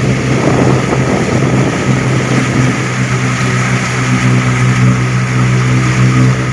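A vehicle's engine runs with a steady drone as it drives slowly through deep floodwater, with water washing and swishing around it, most noticeably in the first couple of seconds.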